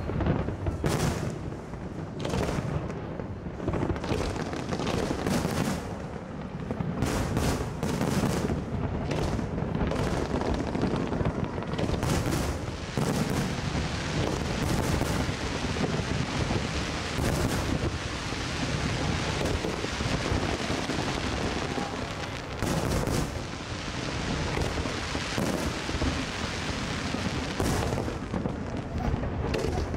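Aerial fireworks bursting in a dense barrage of overlapping bangs and booms that runs without a break and is thickest around the middle.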